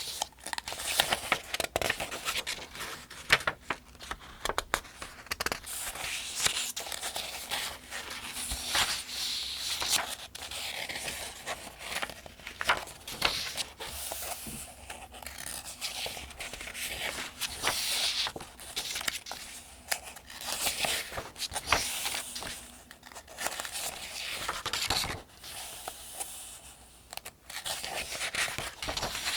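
Pages of a paperback almanac being turned by hand, one after another at a steady, rhythmic pace. Each turn is a soft paper swish and rustle, and there are crisp snaps and flicks of the paper.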